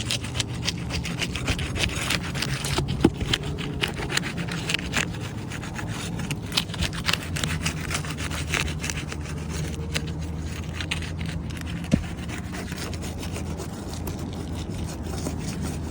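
An old three-tab asphalt shingle being worked loose from the roof: continuous scraping and rubbing with many quick, sharp ticks and snaps. A steady low hum runs underneath.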